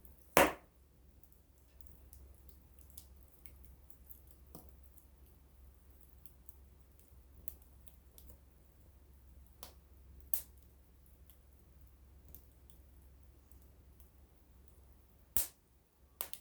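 Small wood campfire crackling, with scattered faint ticks and a few loud sharp pops. The loudest pop comes about half a second in, and there are more near the end.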